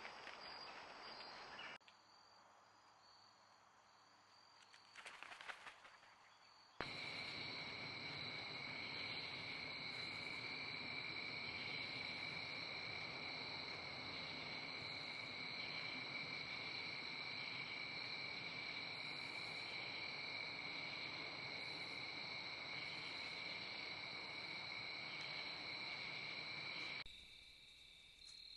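Steady insect chorus of crickets, a continuous high-pitched trilling over a soft hiss. It starts abruptly about seven seconds in and stops abruptly shortly before the end. A quieter stretch comes before it, with a brief rustle.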